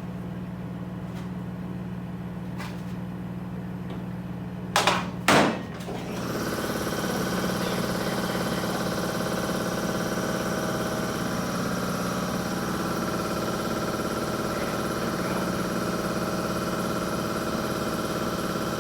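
An engine running steady and low, with two loud metal bangs about five seconds in. About a second later the engine speeds up and runs louder, with a steady high whine over it, as if under load.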